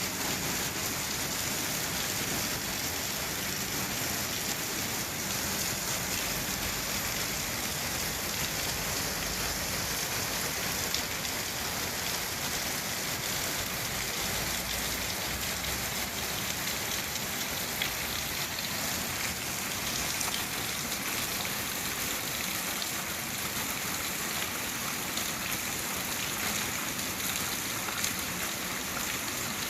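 Steady rainfall, an even hiss of rain with individual drops ticking on a surface.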